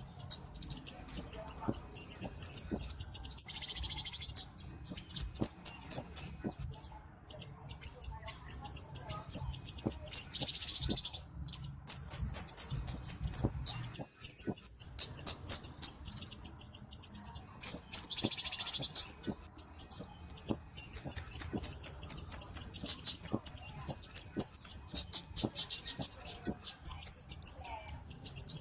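Flowerpecker ('kemade', cabe-cabean) singing: rapid runs of thin, very high ticking notes, several a second, each run lasting a few seconds with short breaks between. A few brief buzzier phrases come in about 4, 10 and 18 seconds in.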